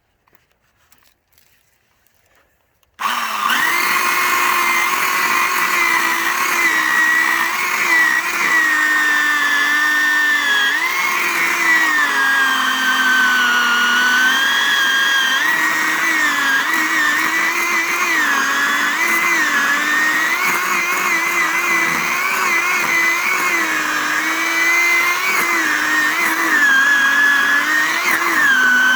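Electric chainsaw starting abruptly about three seconds in, then running with a loud whine whose pitch sags and recovers again and again as the chain bites into a pine log.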